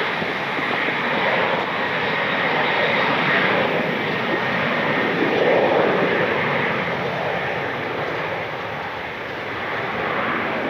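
Jet engine noise of a departing Alaska Airlines Boeing 737: a loud, steady rush that swells about halfway through and eases slightly near the end.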